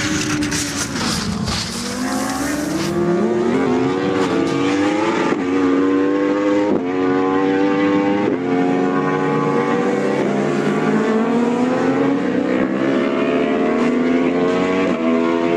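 Racing motorcycle engine at high revs. Its pitch falls over the first second or so, then it accelerates through the gears, climbing steadily and dropping sharply at each upshift about every second and a half, three times, before one long climb.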